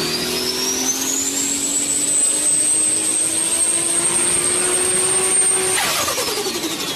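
Turbocharged car engine under hard throttle, its turbo whistle climbing to a high steady pitch while the engine note rises slowly. About six seconds in the throttle closes and the whistle and engine note fall away together, the lift-off where turbo flutter, air surging back through the compressor with no blow-off valve, is heard.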